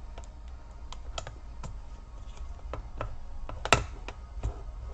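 Irregular plastic clicks and taps from a Toshiba Satellite C855 laptop keyboard being pried at its edge with a sharp blade to free its clips, with one louder click near the end.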